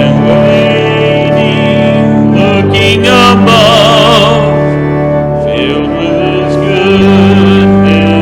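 A hymn with organ accompaniment: long held chords under a singing voice with vibrato.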